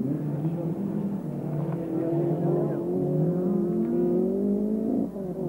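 Rally car engine under hard acceleration: the note climbs about two seconds in and is held high, then breaks briefly near the end.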